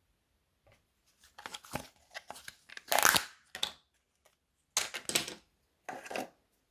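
Crunchy slime and its crushable add-ins being squeezed and broken by hand, crackling and crunching in three bouts; the first and loudest lasts about two seconds.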